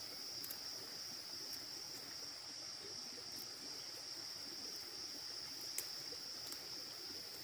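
Steady high-pitched insect drone, one unbroken tone, over faint outdoor background noise, with a few small clicks, the sharpest about six seconds in.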